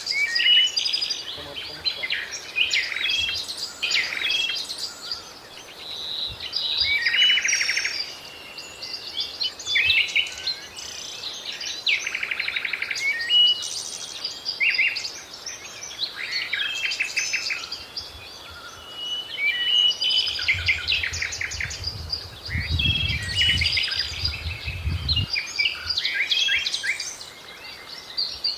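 Several songbirds chirping and singing, with overlapping quick trills and whistled notes. A low rumble runs under them for a few seconds about two-thirds of the way through.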